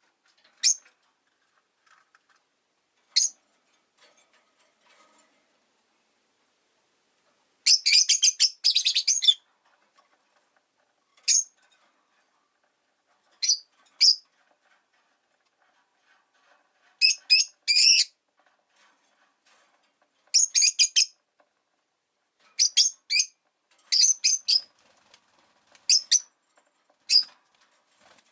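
Rosy-faced lovebirds giving sharp, high-pitched chirps: single calls now and then, and rapid strings of calls about a third of the way in, around the middle, and more often in the last third.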